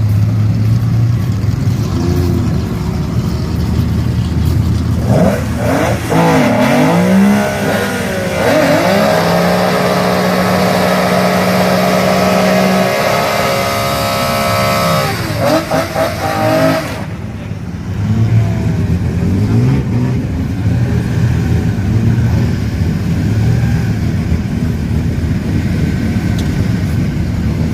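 Drag-racing car engines revving hard at the start line, then held at high revs and climbing in pitch as a car accelerates away down the strip. The engine sound drops away suddenly about 17 seconds in, leaving lower engine running with occasional short revs.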